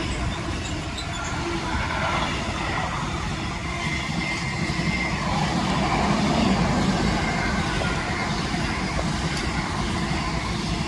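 A freight train hauled by a Class 66 diesel locomotive passing through, with a steady, loud rumble of wheels and wagons on the rails.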